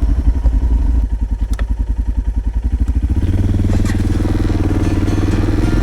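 Motorcycle engine idling with an even, fast pulse, then rising to a steadier, higher note about three seconds in as the bike gets under way.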